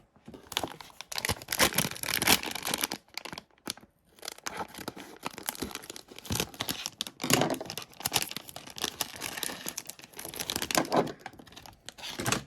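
Toy packaging being crinkled and torn open by hand, an irregular run of crackling and ripping that pauses briefly about three and a half seconds in.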